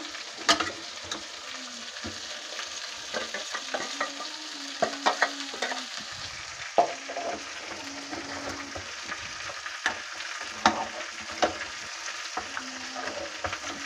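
Chicken sizzling in an aluminium pressure cooker while a steel ladle stirs it, scraping and clinking against the pot now and then as a ground masala paste is mixed in.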